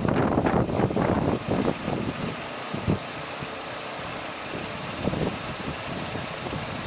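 Toyota Sera's 1.5-litre four-cylinder engine running, louder and rougher for about the first two seconds, then settling to a steady, quiet idle: the surge from a stuck-open idle air control valve is cured.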